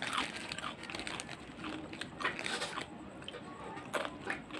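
Onion chips being bitten and chewed, with irregular crisp crunches.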